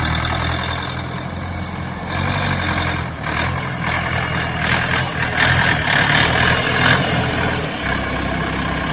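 A 60 hp tractor's turbocharged Xinchai diesel engine running with a steady low hum. It gets louder and harsher from about three seconds in until about seven seconds, then eases off.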